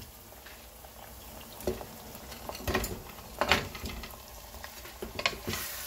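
Onions, tomato and ginger-garlic paste frying gently in oil in a pot, with a few sharp knocks and clatters as raw mutton chunks are tipped in from a bowl, the loudest about three and a half seconds in.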